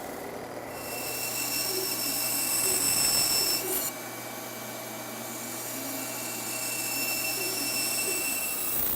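A small power tool running at high speed with a steady high whine, in two runs with a short stop about four seconds in.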